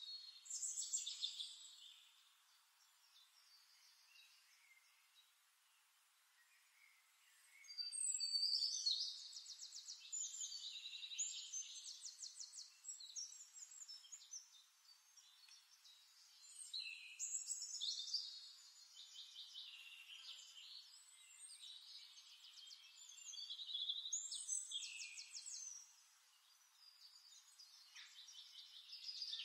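A songbird singing in long, fast-trilled phrases, several of them a few seconds long with quieter pauses between.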